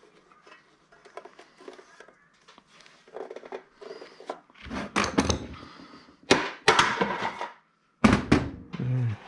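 Parts of a handheld scanner being handled and pulled apart: light clicks and rattles at first, then several loud knocks and clattering thunks of hard parts striking each other and the bench in the second half.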